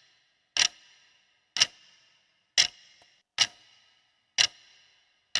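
Countdown-timer clock ticking, one sharp tick about every second, six in all, each with a brief bright ring.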